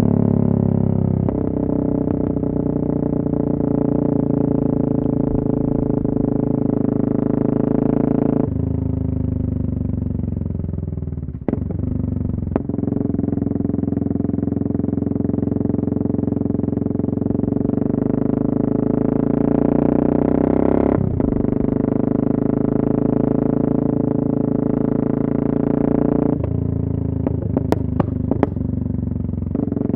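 Yamaha MT-03 660's single-cylinder engine running loud through an exhaust with the dB-killer removed. It holds steady revs that jump up or down in sudden steps, and its pitch falls as it slows about a third of the way in. A few sharp cracks come near the end.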